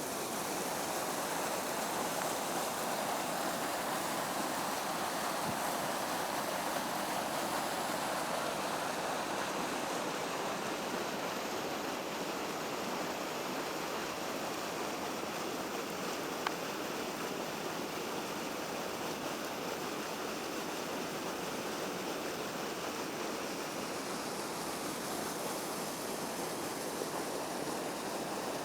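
Water of a small creek waterfall pouring and splashing in a steady rush.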